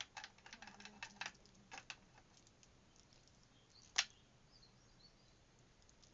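Light clicks and taps of a bracelet being knotted by hand, beads and cord knocking together: a run of small clicks in the first two seconds and one sharper click about four seconds in.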